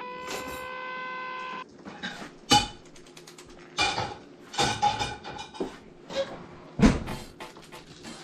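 A held guitar chord rings and cuts off suddenly, followed by irregular clattering knocks and rattles, with two loud knocks about a second after the music stops and again near the end.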